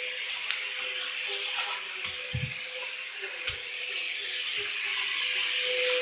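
Vacuum cleaner running steadily: a constant whine over a broad hiss, with a few soft low knocks.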